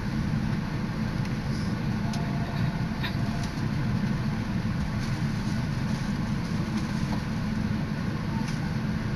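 Steady running noise of a Tōkaidō Line electric commuter train heard inside the carriage: a low rumble of wheels on rail, with a few faint clicks.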